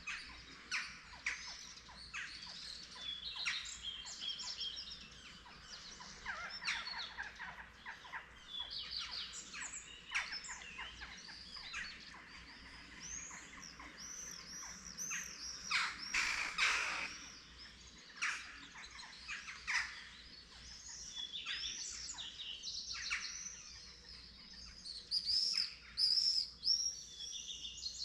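Several songbirds singing together in a dawn chorus, with overlapping chirps, trills and whistled phrases. A run of loud, repeated, arching notes comes near the end.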